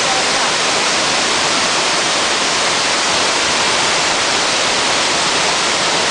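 Shiraito Falls, a wide waterfall of many thin streams, pouring with a steady, loud rush of falling water.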